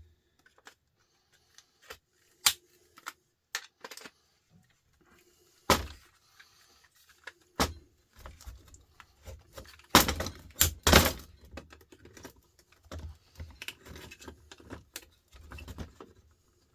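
Irregular knocks and metallic clinks of hand tools on metal parts during the teardown of an old motor for scrap copper, with a cluster of louder knocks about ten seconds in.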